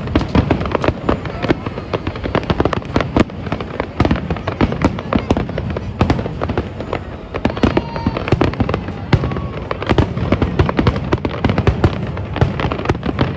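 Fireworks display: a dense, unbroken barrage of bangs and crackles, many a second.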